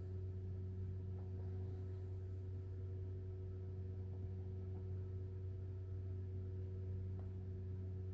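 Steady low electrical hum with a few faint higher tones over it, and several faint ticks about a second in, near the middle and near the end.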